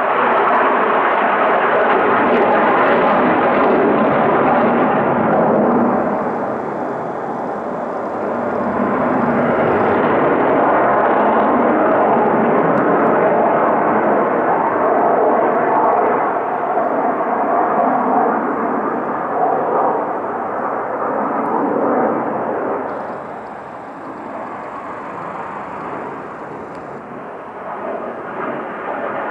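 Military fighter jets flying low in steep climbing turns, with loud jet engine noise. It stays heavy for most of the stretch, dips briefly once, then falls away in the last several seconds as the jet pulls off.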